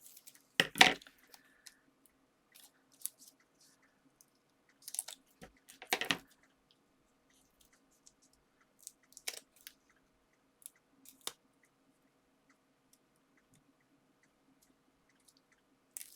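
Paper and card being handled while foam pads are stuck on: scattered crinkles and taps with quiet gaps between, loudest about a second in and again about six seconds in.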